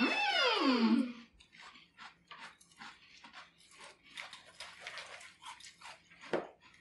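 A loud, drawn-out whining vocal call in the first second, rising and then falling in pitch. It is followed by quiet, scattered crunching and clicking from people chewing chocolate cereal in milk, with metal spoons scraping a glass bowl.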